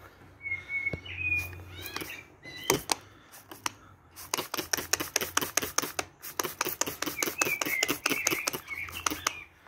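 A bird chirping in the background, with a fast run of sharp clicks, about six a second, starting about four seconds in and stopping near the end.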